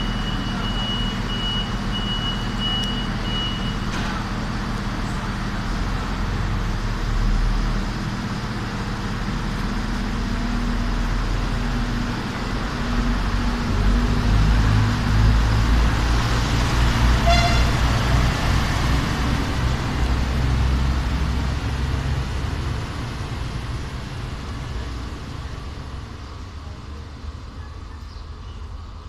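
Diesel multiple-unit train pulling out of a station. Its engine runs, builds up in the middle as the train gets under way, then fades as it moves off. A short horn toot comes a little past halfway. A steady high beeping at the start stops about four seconds in.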